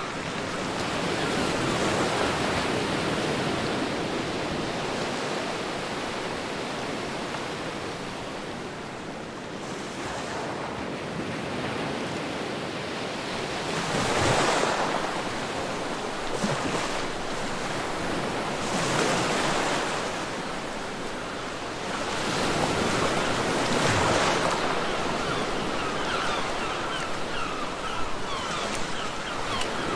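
Ocean waves breaking and washing up a beach, a steady rush that swells with each wave, several surges in a row, with wind.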